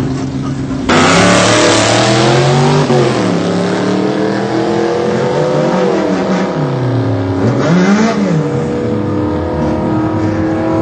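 A car launching hard from a standing start and accelerating away, its engine note climbing and dropping back at each gear change. The launch comes suddenly about a second in with a loud rush of noise.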